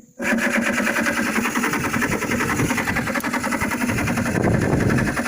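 Mini excavator's diesel engine running steadily with a fast, even clatter, cutting in just after the start.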